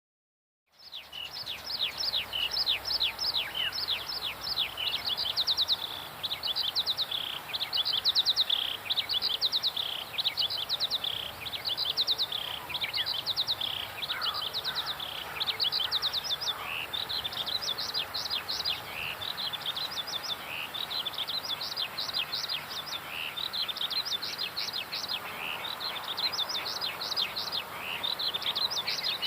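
Birds singing: a continuous chorus of rapid, repeated high chirps and quick descending trills over a faint background hiss, starting about a second in.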